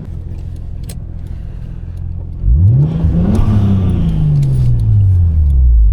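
A sports car engine comes in loudly a little over two seconds in, revs up quickly, then falls back over about two seconds to a steady idle, over the low steady hum of another idling engine.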